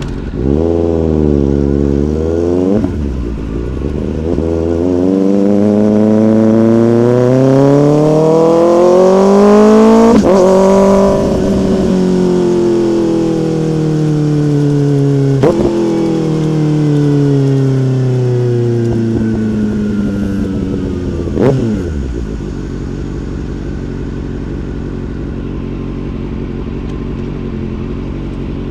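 Motorcycle engine pulling hard, its pitch climbing for several seconds to a peak about ten seconds in, then falling steadily. Sharp clicks at each shift along the way. After about twenty-two seconds it settles to a steady low drone.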